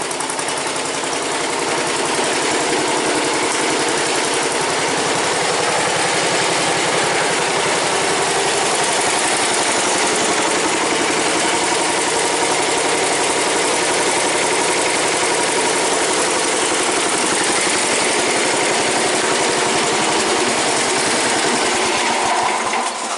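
Suburban 10 garden tractor engine running steadily just after a choked cold start, then cutting out shortly before the end. The owner takes the way it quit for a sign that the ignition switch is starting to go.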